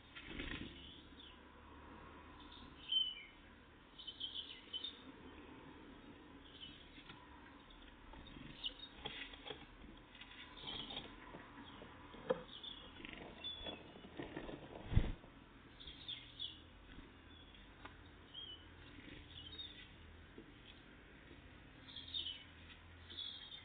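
Great tits and blue tits at a peanut feeder: short high chirps and calls throughout, with scattered taps and knocks from the birds at the feeder and one sharper knock about 15 seconds in.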